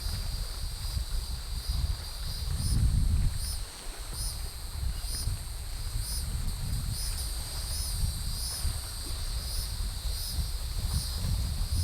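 Insects calling in a steady high-pitched chorus, swelling in a regular pulse a little more often than once a second, the kind of calling that sounds like night. Wind rumbles on the microphone underneath.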